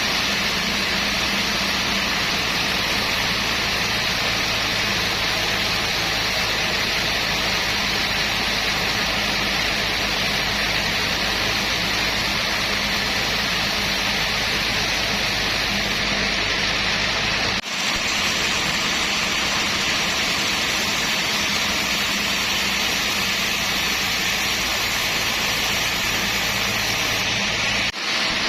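Sawmill machinery running steadily in a teak sawmill: a loud, continuous rushing noise over a low motor hum, broken by two abrupt cuts about 18 and 28 seconds in.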